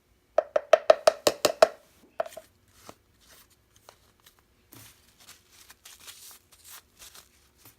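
A spoon knocked quickly against the blender cup, about nine sharp ringing raps in just over a second, followed by a few faint clicks and light scraping.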